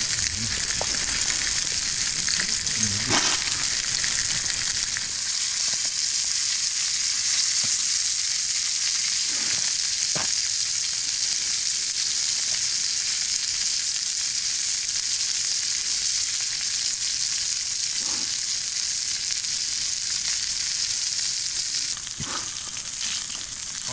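Steady sizzling of food frying in a hot iron pan over a campfire, with a few faint clicks.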